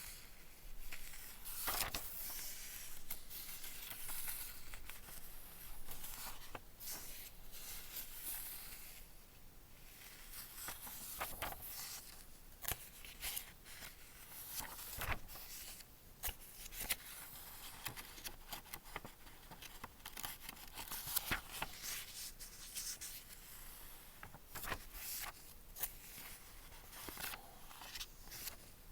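Pages of a paper picture book being turned one after another: irregular paper rustles and flicks.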